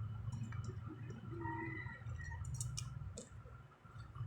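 A few light clicks and taps over a steady low hum.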